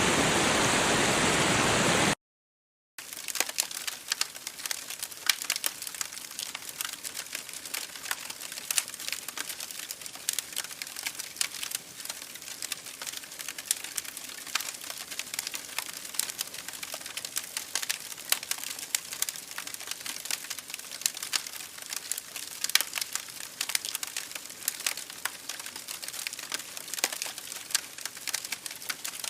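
Campfire crackling, with many small sharp pops and snaps over a quiet background. For the first two seconds there is a steady rushing water-like noise, which cuts off abruptly into a moment of dead silence before the crackling starts.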